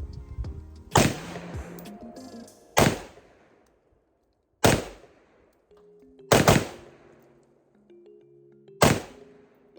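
Six shots from a Palmetto State Armory AR-15 pistol fired semi-automatically, mostly a second or two apart, with two in quick succession (a double tap) about two-thirds of the way through.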